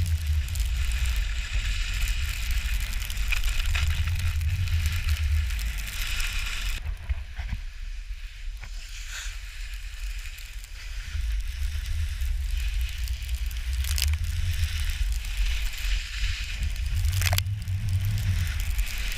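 Skis carving and scraping over snow, a continuous hiss, with low wind rumble on the microphone. It goes quieter for a few seconds about seven seconds in, then picks up again, with a couple of sharp clicks later on.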